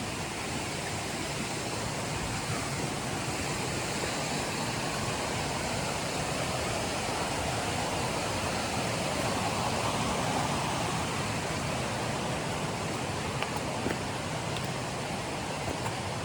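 River water rushing steadily, swelling slightly in the middle, with a few faint ticks near the end.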